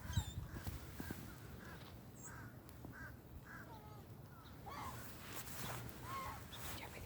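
Birds calling: a string of short, repeated calls, several a second through the middle, over faint steady background noise.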